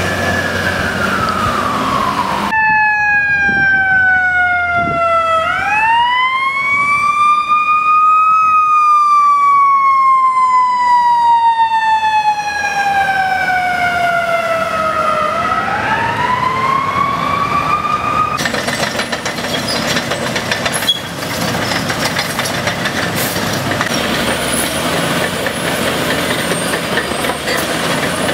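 Fire engine siren wailing: the pitch slides slowly down over several seconds and sweeps quickly back up, twice. It cuts off suddenly about two-thirds of the way through, leaving the steady noise of a running truck engine.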